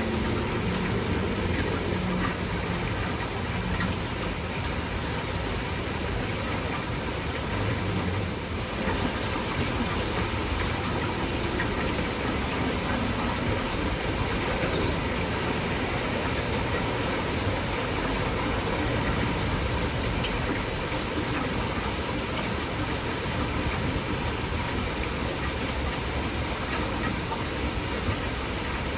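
Steady heavy rain, an even rushing hiss, with a low engine hum fading out in the first couple of seconds.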